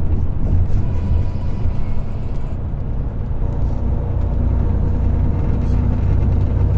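Semi truck cab noise while driving at highway speed: a steady low rumble of the diesel engine and tyres on the road.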